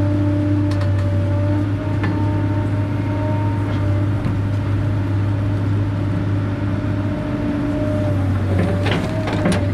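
Excavator's diesel engine running steadily with a deep hum, with a few sharp knocks near the end.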